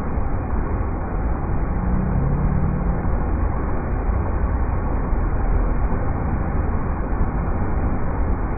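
River rapids: a steady rush of water, with a deep rumble that stays even throughout.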